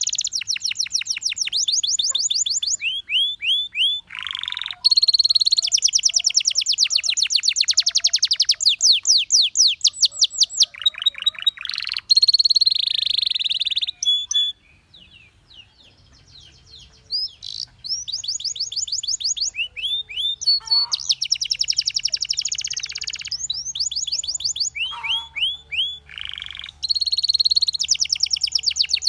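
Canary singing: fast trills of rapidly repeated high notes and short rising sweeps, delivered in phrases, with a pause of about two seconds midway before the song resumes.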